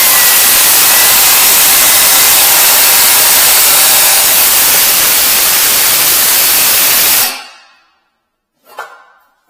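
A loud, steady motor-driven hiss, as from an electric power tool or vacuum, switched off about seven seconds in and dying away quickly. A single short knock follows near the end.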